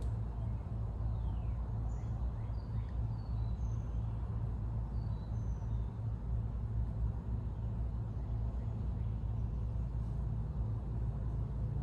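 Steady low background rumble, with a few faint high chirps scattered through it.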